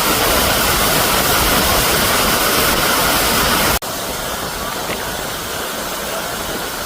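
Steady rush of a waterfall; about four seconds in it breaks off sharply and carries on as a quieter, thinner rush.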